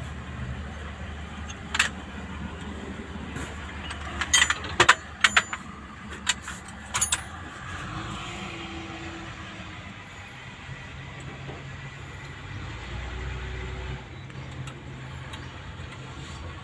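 Metal hand tools clinking and knocking against engine parts a handful of times, mostly between about four and seven seconds in, over a steady low engine hum.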